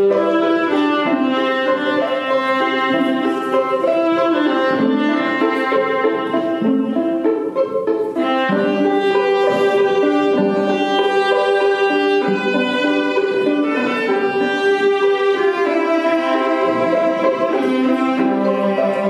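Music on bowed strings: a violin carrying a slow melody of long, held notes over lower string notes.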